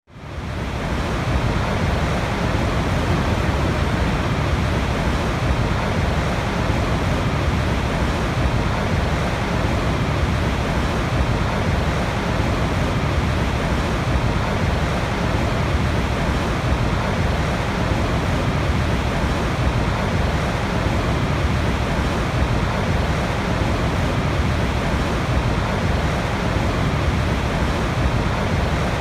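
Niagara Falls roaring: a loud, steady rush of falling water, deepest in the bass, fading in over the first second.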